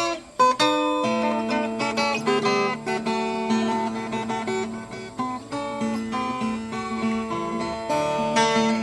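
Background music: acoustic guitar playing a melody of plucked notes over a sustained low note.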